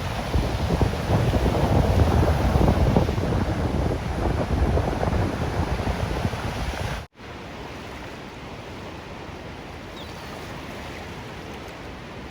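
Ocean surf washing, with wind rumbling on the microphone. About seven seconds in it cuts off abruptly and gives way to a quieter, steadier wash of surf.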